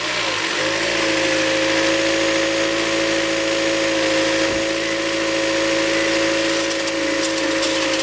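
Toyota Harrier (60 series) four-cylinder petrol engine idling steadily just after a start, with a constant hum. Near the end a faint ticking begins: the onset of the abnormal CVT noise that comes on right after start-up, during which the car will not move off in Drive.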